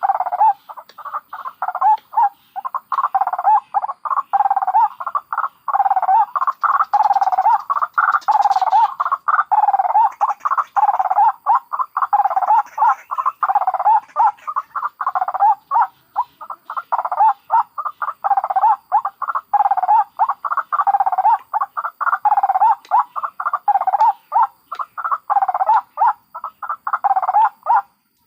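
White-breasted waterhens calling, adults and chicks together, in a dense, unbroken run of rapidly repeated calls.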